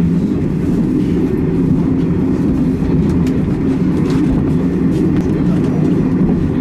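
Steady low rumble heard inside a sleeper train carriage, with a few faint light clicks and rustles over it.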